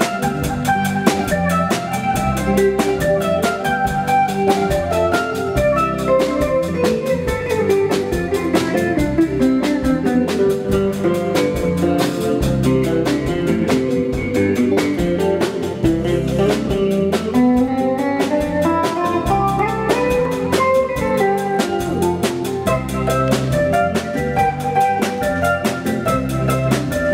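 Live band playing an instrumental passage, with drums keeping a steady beat under pitched instruments that play a run of climbing notes about two thirds of the way through.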